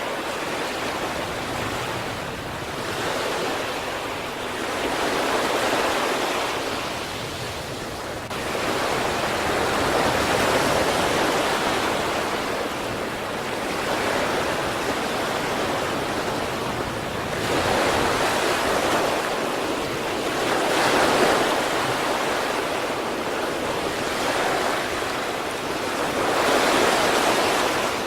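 Sea waves breaking and washing on the shore, a steady rush of surf that swells and falls every few seconds, with louder breakers about 6, 10, 18, 21 and 27 seconds in.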